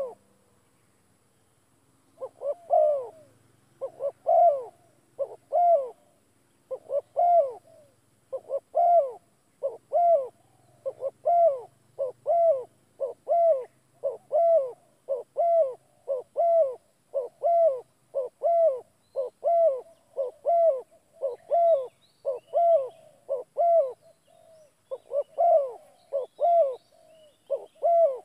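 A bird calling over and over: short, arched hooting notes, mostly in pairs, repeated about once a second, starting about two seconds in.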